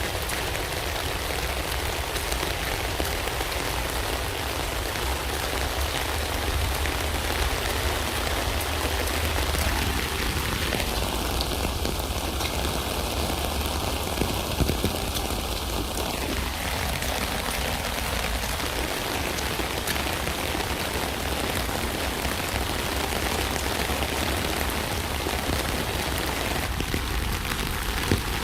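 Steady rain falling on a tent, an even patter with a few sharper individual drop taps.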